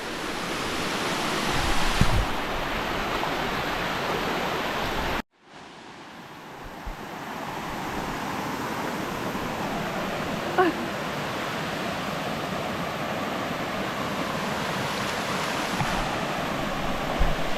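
Waterfall rushing steadily over rocks. The sound breaks off for a moment about five seconds in and then returns.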